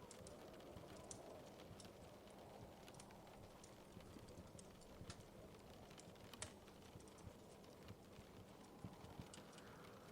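Wood fire crackling in a fireplace: faint, irregular pops and snaps over a soft steady hiss.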